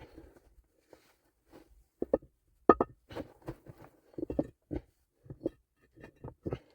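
Irregular knocks and clunks of hard objects being handled, about a dozen in a few seconds, the loudest a sharp double knock near the middle.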